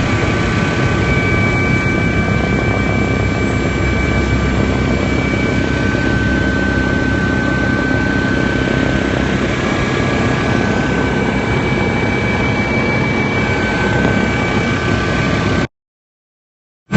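Helicopter in flight heard from inside the cabin: a steady, loud drone and rush with a few high steady whining tones. It cuts out abruptly to silence near the end.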